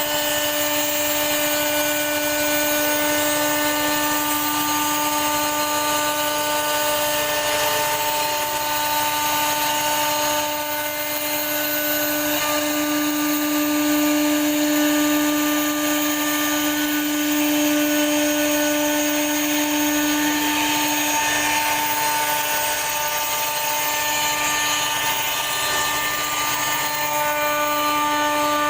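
CNC router spindle running at a steady pitch over the hiss of the bit cutting a wooden door panel; the whine grows louder for several seconds in the middle.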